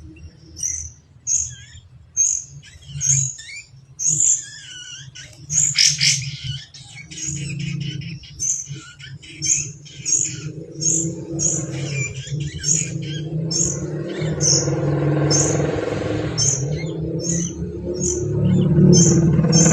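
Kapas tembak bird chirping: short, high, evenly spaced calls, roughly three every two seconds. A low engine-like rumble builds underneath from about halfway and grows louder near the end.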